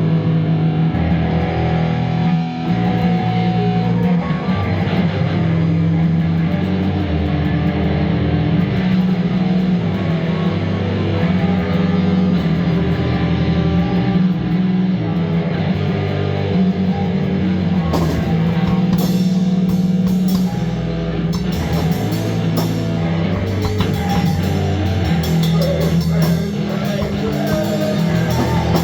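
Loud rock music with guitar, heavier and with drums from a little past the middle.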